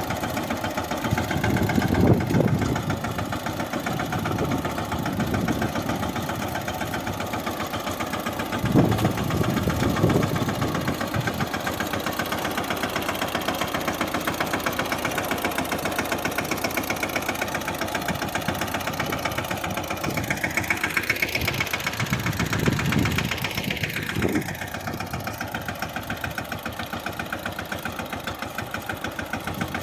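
Mahindra Yuvraj 15 hp mini tractor's single-cylinder diesel engine running with a rapid, even chugging beat as it pulls a homemade leveller, with a few louder low surges. About two-thirds through, the engine revs up and back down, then runs a little quieter near the end.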